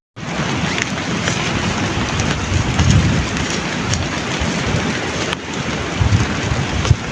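Heavy rain pouring steadily, with an uneven low rumble underneath.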